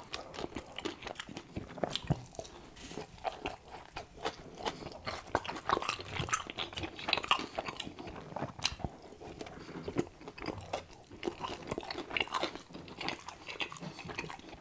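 Close-miked eating of a cheeseburger: biting and chewing, heard as a run of irregular mouth clicks and smacks.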